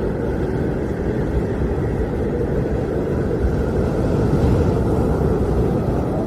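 Blizzard wind blowing steadily as a deep, even rumble.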